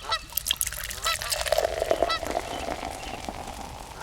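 Geese honking: short, repeated calls coming roughly once a second, with a steady hum underneath from about a second and a half in.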